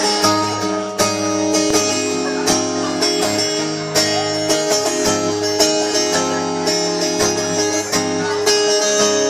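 Guitar strumming chords in a steady rhythm, the instrumental intro of a song played live.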